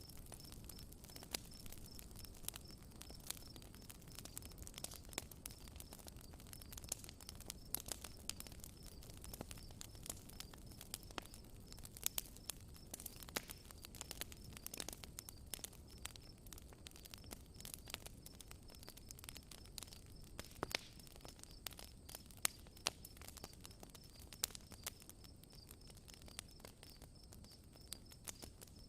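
Campfire crackling, with irregular sharp pops, over a steady high-pitched insect trill.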